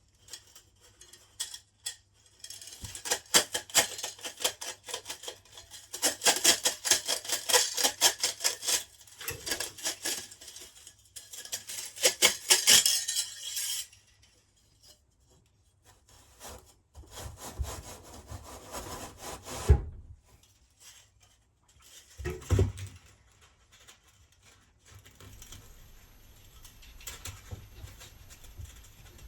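Fast back-and-forth scraping and rasping strokes, a long run in the first half and two shorter, quieter runs later, as the heating element is worked loose from the electric melting furnace's lining.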